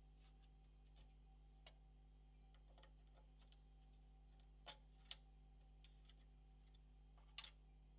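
Faint, scattered clicks and taps, about eight of them, from small parts and connectors of a PlayStation 4 Pro being handled during disassembly, the sharpest a little past halfway and near the end, over a low steady hum.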